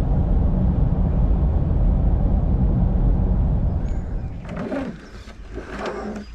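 Steady low road and engine rumble inside a four-wheel drive's cabin while cruising on the highway, cutting off about four seconds in. A quieter stretch of short, irregular sounds follows.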